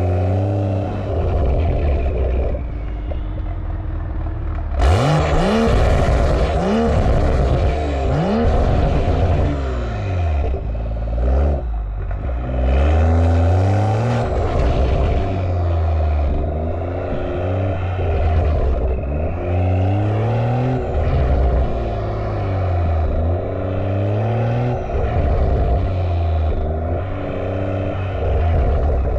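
A 2020 BMW M340i's B58 turbocharged 3.0-litre straight-six running through an aftermarket valved catback exhaust and catless downpipe. The engine revs up and drops back again and again, its pitch climbing and then falling. A loud rush of noise joins about five seconds in.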